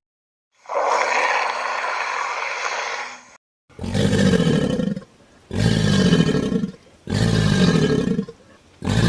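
Animal sound effect: a hiss lasting close to three seconds, then four identical roaring calls in a row, each about a second and a half long and sliding slightly down in pitch.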